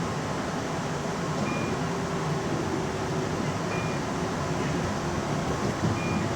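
Keihan electric commuter train running on the line, a steady rolling rumble of wheels on rail. Three short high beeps come about two seconds apart.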